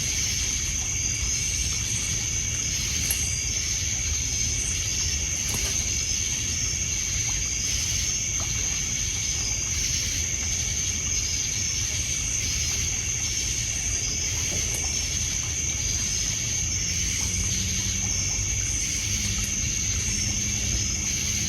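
Steady high trill of crickets and other night insects with short repeated chirps, over a low wash of water lapping on a pebble beach and a few small pops from a crackling wood fire. A low steady hum joins near the end.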